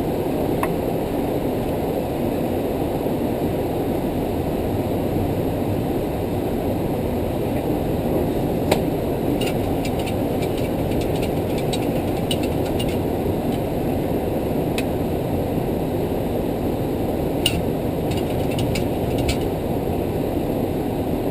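Steady cockpit noise of a Boeing 737-300 in flight on approach: a constant rush of airflow and engine rumble on the flight deck, with a few faint sharp clicks, one about nine seconds in and a small cluster near the end.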